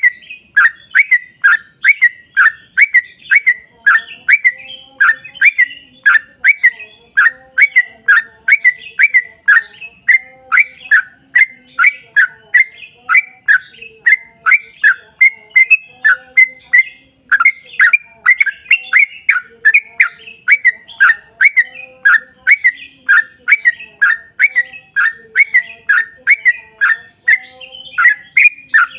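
Yellow-vented bulbul (trucukan) in long, unbroken song: a rapid string of short, bright chattering notes, about two to three a second. This is the 'ropel panjang' run of song that is played to draw other bulbuls into singing.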